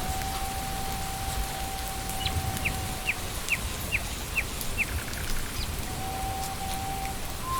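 Steady rain falling, with a bird calling a run of about six short, evenly spaced descending notes in the middle, over a soft sustained music tone.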